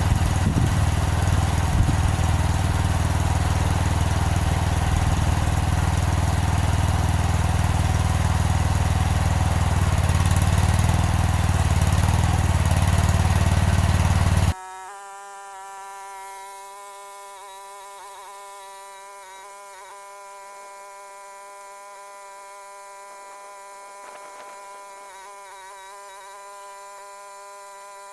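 A small engine running steadily, which cuts off abruptly about halfway through. After it, a much quieter steady hum of several held pitches with slight wavering, like soft background music.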